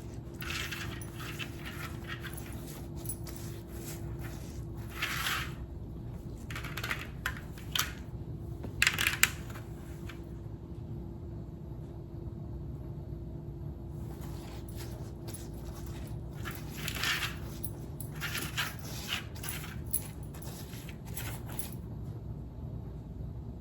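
Intermittent small clinks, taps and scrapes of kitchen utensils being handled, over a steady low hum. The clinks come in scattered clusters, loudest about nine seconds in.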